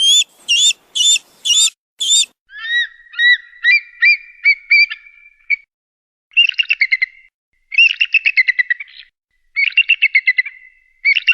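Birds of prey calling: five short, high-pitched calls in quick succession, then a run of quick piping notes, then several bursts of rapid chattering trills.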